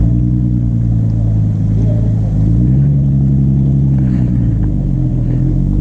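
Off-road 4x4 engine running at low revs on a sandy trail; the revs climb about two and a half seconds in and ease off again.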